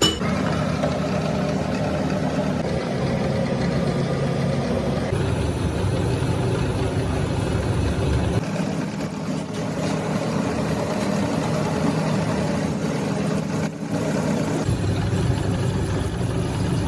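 Workshop machinery running steadily, a low hum with layered tones that changes abruptly a few times, at about 5, 8.5 and 15 seconds in.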